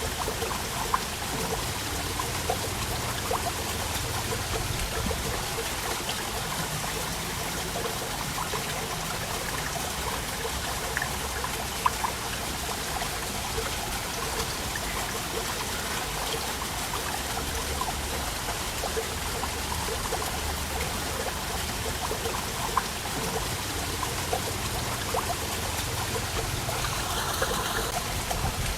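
Waterfall running steadily, a constant rush of falling water with trickling and splashing over it and a few sharper splashes here and there.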